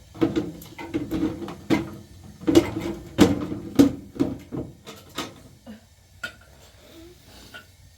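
Kitchen pots and utensils knocking and clattering: a quick run of sharp knocks with a slight ringing for the first five seconds or so, then only a few scattered clicks.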